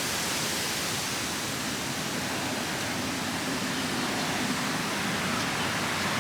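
A steady, even rushing noise with no distinct events, the kind made by wind or falling rain outdoors after a storm.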